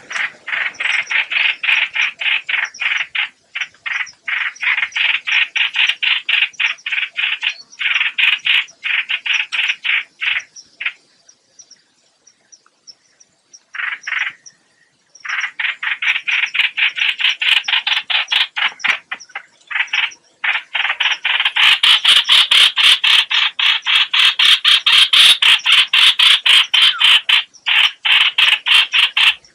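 Hoạch hoạch bird calls used as a trapping lure: rapid runs of short, repeated notes, several a second, broken by brief pauses. There is a longer break about eleven seconds in, and the calling is louder from about twenty-one seconds on.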